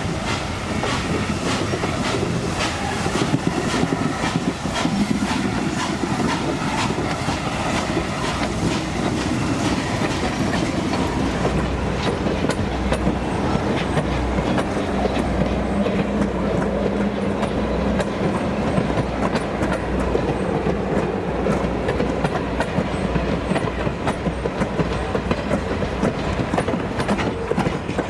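Passenger excursion train rolling along, its wheels clicking steadily over the rail joints above a continuous rumble.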